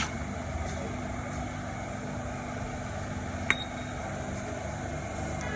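A steady mechanical hum, with one sharp metallic clink that rings briefly about three and a half seconds in.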